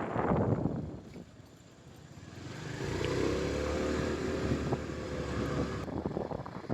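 Motorcycle ride: wind buffeting the microphone dies away within the first second or two. A steady engine hum then comes in about two and a half seconds in, and wind noise returns near the end.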